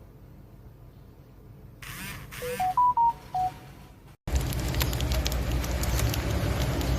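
An electronic appliance beeper plays a short tune of five pure tones, rising and then falling, about two and a half seconds in. About four seconds in, a loud, steady rushing noise with scattered clicks takes over.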